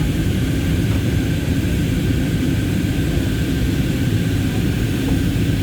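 Aeroplane in flight, heard from inside the cabin: a steady, deep drone of engine and air noise that does not change.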